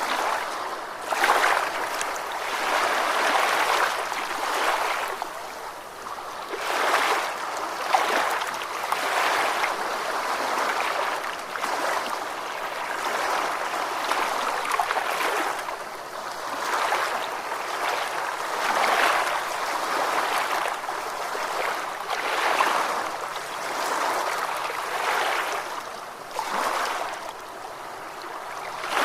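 Small ocean waves lapping and washing in, a continuous hiss of water that swells and eases every two to three seconds.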